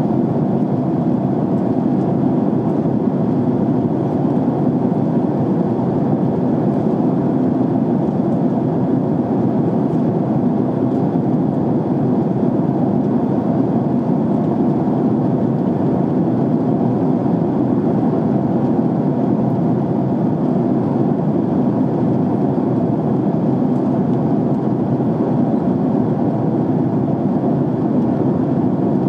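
Steady rumble inside a jet airliner's cabin in flight: engine and airflow noise, even and unchanging, its weight in the deep range.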